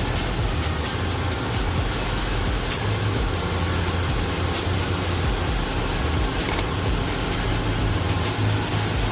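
An engine running steadily at idle, a continuous low rumble with a few faint clicks over it.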